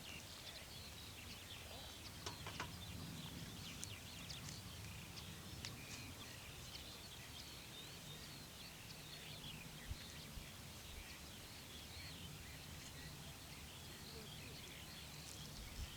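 Faint outdoor ambience with small birds chirping on and off over a low, steady rumble, and a few sharp clicks.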